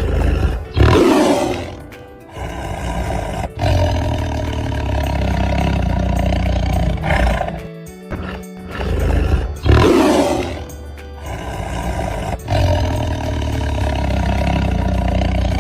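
Recorded tiger roar played twice, each time a loud roar that trails into a long rumbling growl, over background music.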